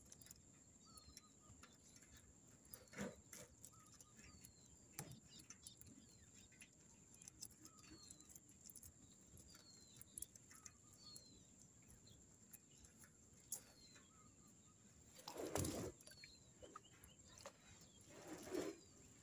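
A bird repeating a short, high, downward-sliding call about every one and a half to two seconds, faint over a steady high whine. Two louder brief noises come near the end.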